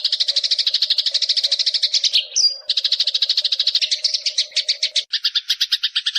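Eurasian tree sparrows chirping in a fast, unbroken run of about ten chirps a second. About two seconds in there is a brief gap with a single short rising note, and near five seconds the chirps change to a slightly lower, doubled pattern.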